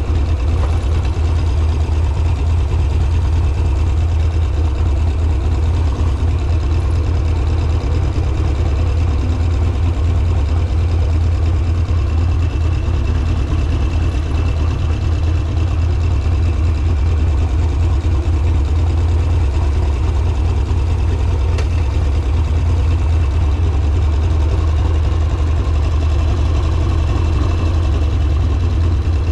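Harley-Davidson Sportster's air-cooled V-twin engine running steadily at low revs, a deep even rumble with no revving.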